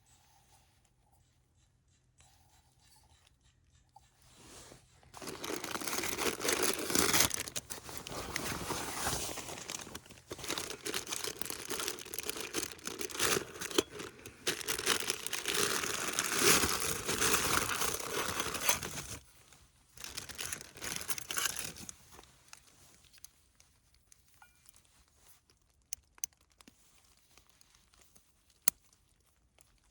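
Crinkly material being handled and rustled close up, in long bouts starting about five seconds in and dying away after about twenty seconds, followed by a few light clicks near the end.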